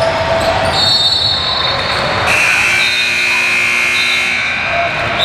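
Basketball game sounds in a gym: a ball bouncing on the court, with a steady high-pitched tone held for about two seconds in the middle.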